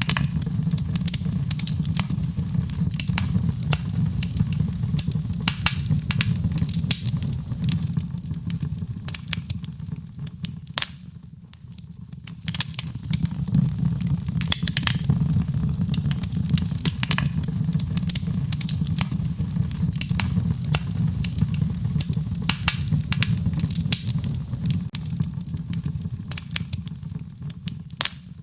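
Fireplace wood fire crackling, with many small sharp pops over a steady low rumble; the crackling thins out briefly about eleven seconds in.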